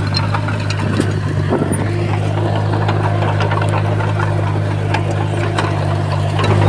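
Komatsu bulldozer's diesel engine running steadily, with scattered short clicks and clanks over the low drone.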